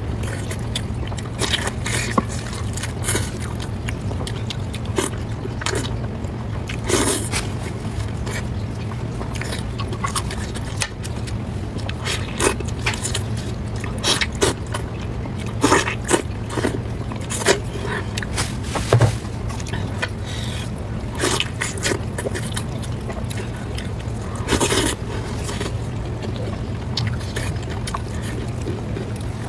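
Close-miked eating sounds: chewing with irregular wet clicks and smacks, over a steady low hum.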